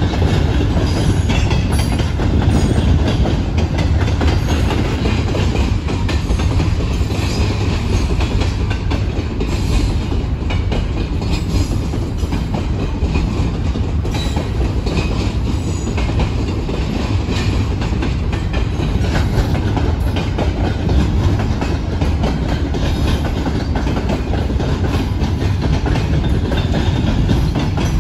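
Double-stack container cars of a freight train rolling past at a crossing: a steady low rumble with scattered wheel clicks.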